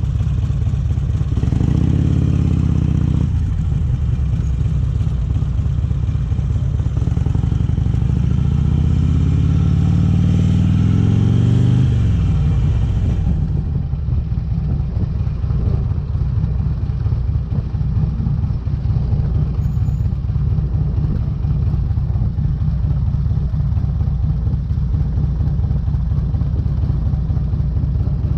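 A Harley-Davidson Electra Glide's V-twin engine running loud through Vance & Hines exhaust pipes. It is revved briefly, then climbs steadily in pitch under acceleration for several seconds. About twelve seconds in the pitch drops back, and the engine runs on at lower revs with an uneven, lumpy beat.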